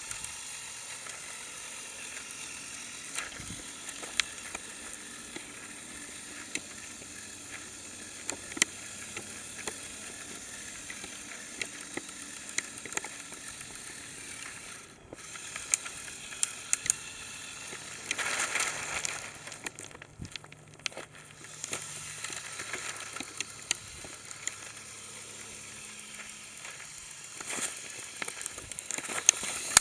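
Lego Technic remote-control trial truck crawling over rocks, its small electric motors humming faintly while the tyres crunch and plastic parts click and clatter. A louder scrabbling clatter comes about two thirds of the way through.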